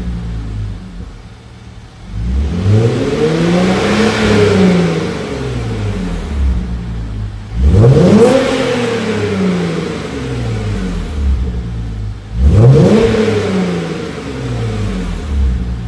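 Hyundai Genesis Coupe engine revved three times through an aftermarket stainless mid muffler and titanium dual exhaust, settling back to idle between revs. The first rev climbs and falls more slowly; the second and third come about five seconds apart, each rising sharply and then dropping away.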